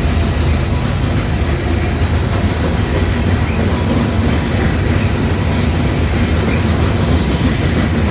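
Long freight train passing at close range, its wheels rumbling loudly and steadily on the rails.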